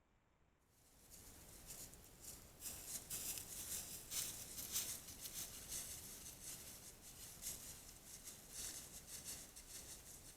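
Irregular close rustling and crackling, full of small sharp clicks, starting about a second in and running on unevenly.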